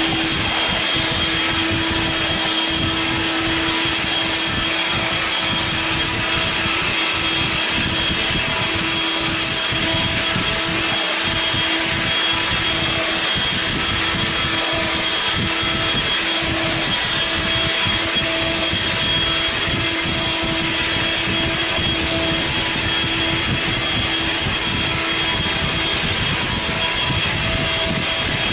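Eureka bagless vacuum cleaner running steadily: a constant motor whine over the rush of suction air.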